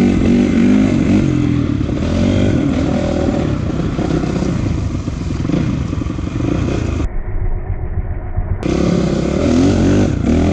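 Honda CRF450's single-cylinder four-stroke engine revving as the dirt bike is ridden, its pitch rising and falling with the throttle. About seven seconds in, the sound turns muffled for a second and a half.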